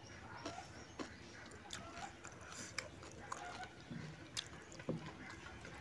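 A person chewing a mouthful of rice and fish, with scattered soft, wet mouth clicks and smacks.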